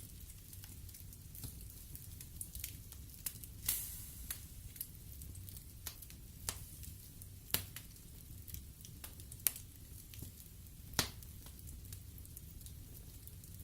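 Wood fire burning in a fireplace: irregular crackles and sharp pops of burning logs over a low steady rumble, with a few louder pops scattered through.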